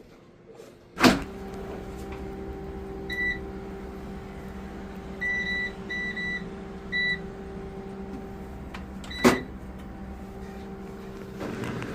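A household appliance switches on with a sharp click and then runs with a steady electrical hum. Its control panel gives five short, high electronic beeps. A second sharp click comes near the end.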